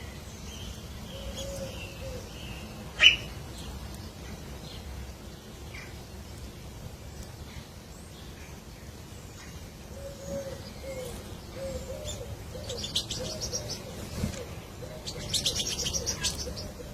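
Bird calls: a string of soft, low repeated notes, with two bursts of rapid, high chirping near the end. A single sharp click about three seconds in is the loudest sound.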